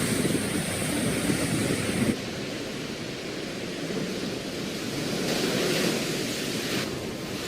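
Rushing floodwater with wind buffeting the microphone, a steady roar of noise. Its character changes abruptly about two seconds in and again near the end.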